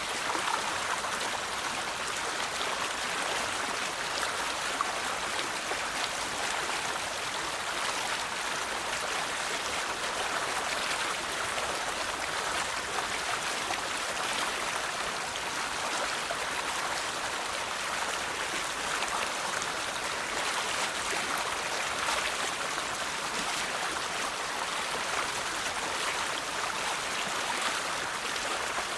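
River water flowing steadily over stones, a continuous rushing babble with fine splashes throughout.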